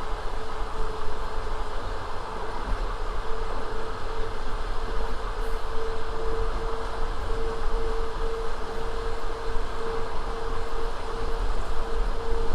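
Passenger train running along the line: a steady rumble of the wheels on the rails, with a steady, slightly wavering tone over it.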